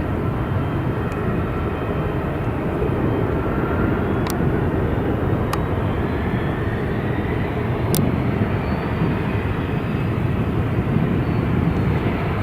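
Boeing 747 freighter's four jet engines at takeoff power as it climbs away: a loud, steady rumble with a faint whine that glides slowly in pitch.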